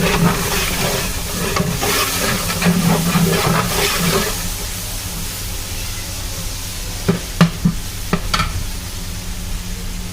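Food frying in a large biryani cooking pot while being stirred with a ladle: sizzling and scraping for about four seconds, then quieter, with a few sharp knocks later on. A steady low hum runs underneath.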